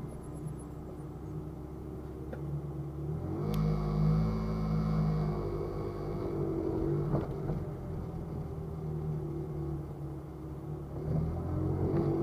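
Car engine running at low speed as the car is driven slowly; about three and a half seconds in the note steps up and grows louder as it pulls ahead, then eases and rises again near the end.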